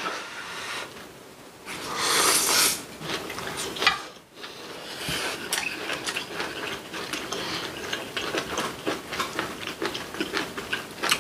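Close-miked chewing of braised kimchi and rice, with rapid wet mouth clicks and smacks. A louder slurp about two seconds in as a long piece of kimchi is drawn into the mouth.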